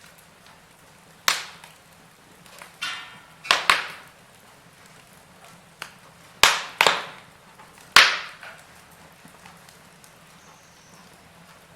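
A chimney fire burning, giving sharp, irregular cracks and pops, about seven of them, one with a brief crackling rattle.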